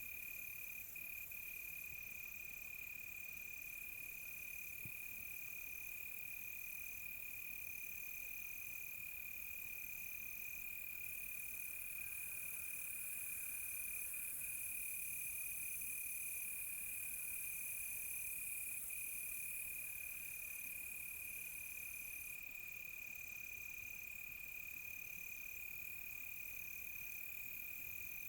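Night chorus of crickets: one steady, unbroken high trill, with a second insect chirping in an even, regular pulse above it. A high insect hiss swells in the middle and eases off again.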